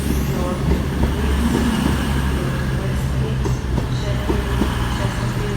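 CrossCountry Class 220 Voyager diesel multiple unit with its underfloor diesel engines running, a steady low drone.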